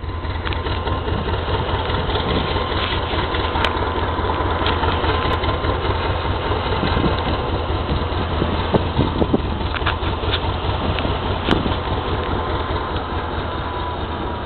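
Northern Ireland Railways 450 class diesel multiple unit's engine idling steadily, with a few short knocks about halfway through.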